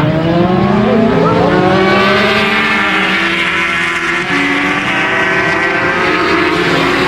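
Several racing motorcycles at high revs, their engine notes rising together as they accelerate, with a brief dip and a gear change about four seconds in.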